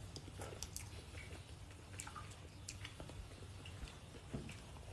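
Faint mouth sounds of chewing a boiled dumpling, with scattered small clicks of chopsticks and a spoon against a ceramic bowl.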